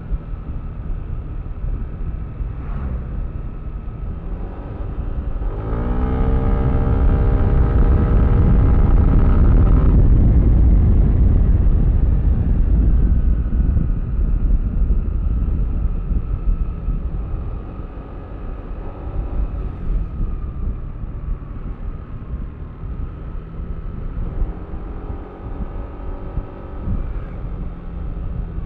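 Yamaha Aerox V3 scooter's 155 cc single-cylinder engine running on the move, revving up as it accelerates about six seconds in, with a loud low rumble for several seconds after. It then settles to a steadier cruise and picks up again near the end.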